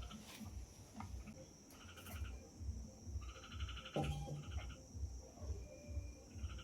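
Two trilled animal calls, a short one about two seconds in and a longer one about a second later, over a steady high insect drone and soft low thumps about three times a second.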